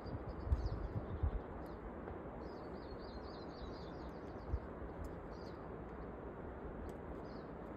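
Small birds chirping over a steady outdoor background hiss, with a quick run of chirps in the middle. A few low thumps come near the start and once about four and a half seconds in.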